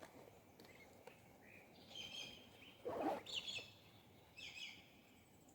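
Wild birds calling: short, high, chirping phrases repeated about once a second over faint outdoor background. A brief dull sound about three seconds in is the loudest thing.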